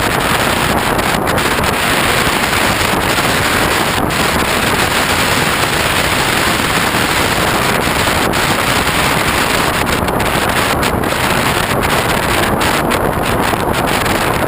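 Steady, loud rush of wind over the microphone of a GoPro on the wing of a foam RC airplane in flight.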